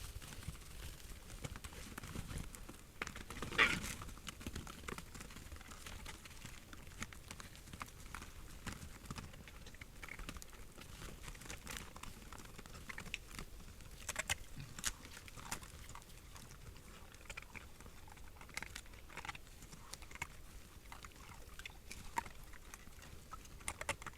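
Animals moving and feeding on the forest floor: scattered soft steps, small cracks and crunching, with one louder, longer sound about three and a half seconds in.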